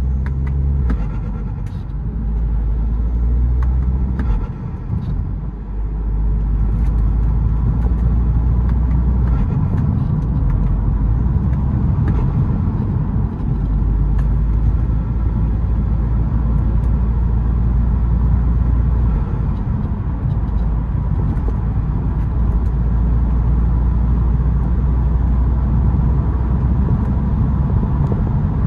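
BMW E92 320d's four-cylinder turbodiesel, fitted with a K&N cold air intake, running while the car is driven: a steady low rumble. The sound dips briefly about four to five seconds in, then carries on evenly.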